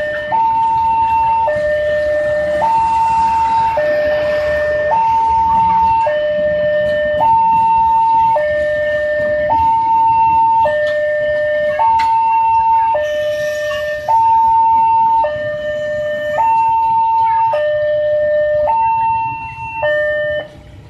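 Railway level-crossing warning alarm: an electronic two-tone signal switching back and forth between a low and a high tone about once a second, cutting off abruptly near the end.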